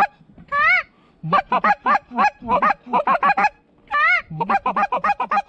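Goose honking and clucking: a long honk, then a fast run of short clucks, another long honk and another quick run of clucks.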